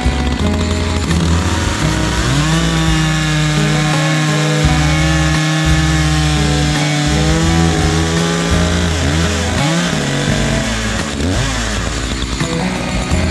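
Echo CS 590 two-stroke chainsaw with a new Oregon chain cutting firewood. The engine pitch climbs about two seconds in, holds steady through the cut, then wavers and falls back a little before ten seconds in.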